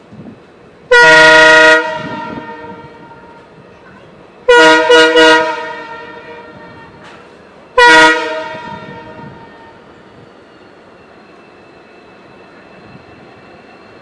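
Indian Railways train horn sounding three times: a held blast about a second in, a blast broken into a few quick toots about four and a half seconds in, and a short blast near eight seconds. Each blast trails off echoing.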